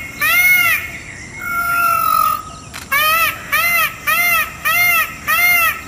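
Peacock (Indian peafowl) calling: a run of short, arched calls about two a second, broken about a second in by one longer, level call, with the quick series starting again about three seconds in.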